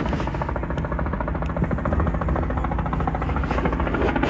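Helicopter rotor blades beating in a steady, rapid chop.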